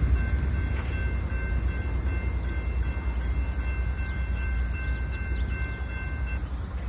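Train passing with a heavy, pulsing low rumble, and a steady high-pitched ringing tone over it that stops near the end.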